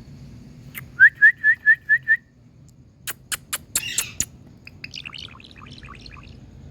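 Rose-ringed parakeet (Indian green parrot) calling: a quick run of six short rising notes, then a few sharp clicks, then a spell of soft chattering chirps.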